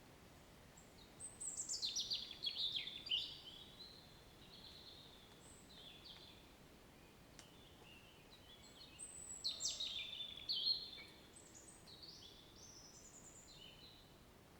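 A songbird singing two loud phrases of rapid high notes, the first about a second in and the second about nine seconds in, with softer calls between them, over a steady faint hiss.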